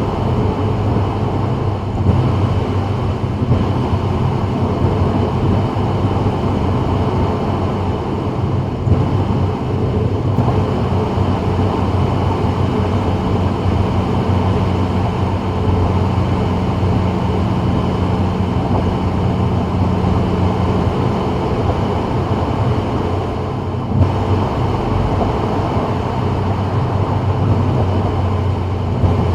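Steady road and engine noise of a car cruising on the freeway, a low hum under an even roar of tyres and wind, heard from inside the cabin of a 2024 Subaru WRX.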